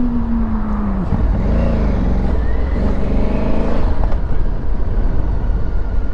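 Honda Africa Twin's parallel-twin engine running over a steady low rumble. Its note falls through the first second as the bike slows, then wavers up and down for a few seconds at low speed.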